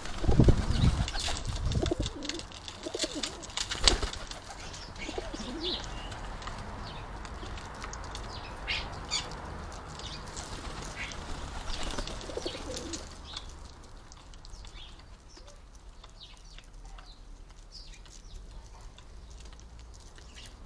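Garden birds at a feeding station: wings flapping loudly in the first couple of seconds, a sharp knock about four seconds in, and many short sparrow chirps, thinning out and fainter after about thirteen seconds.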